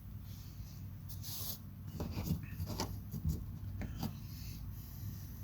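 A few light clicks and scrapes of small metal parts and tools being handled, over a steady low hum.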